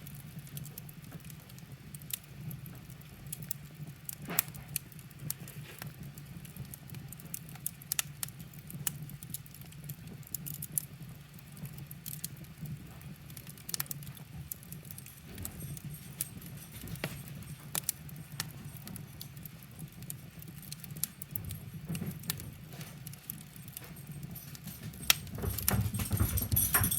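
Wood fire crackling, with irregular sharp pops and snaps over a steady low rumble. Near the end it gets louder as dogs run, their paws scrabbling and thumping.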